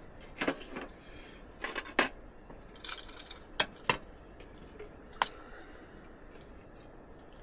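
A utensil clinking and scraping against a cooking pot of pasta, about six sharp clinks spread a second or so apart, some with a brief ring.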